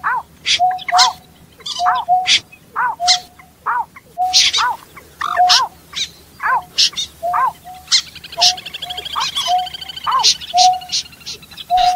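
A bird call repeated rapidly and steadily, about two calls a second: each call is a sharp click, then a short note that rises and falls, then a flat lower note. From about eight seconds in, a faint buzzing trill runs alongside.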